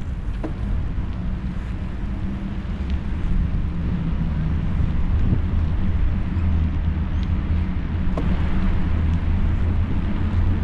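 Steady road-traffic rumble mixed with wind noise on the microphone of a moving bicycle. The sound gets a little louder about halfway through.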